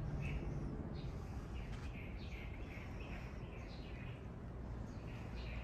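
Small birds chirping in short, repeated high calls over a steady low background hum of outdoor noise.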